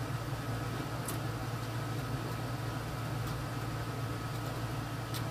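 Steady machine hum with a thin, constant high whine over it, and a couple of faint soft clicks.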